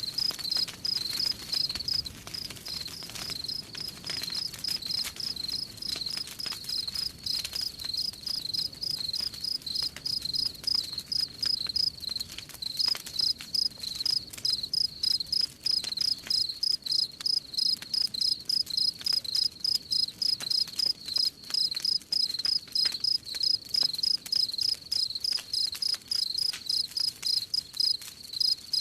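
Crickets chirping in a steady, even rhythm of about three high-pitched chirps a second, with faint crackling of a wood campfire underneath.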